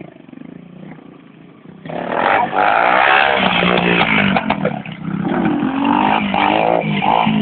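Motocross bike engine revving loudly, coming in about two seconds in, its pitch rising and falling as the rider works the throttle.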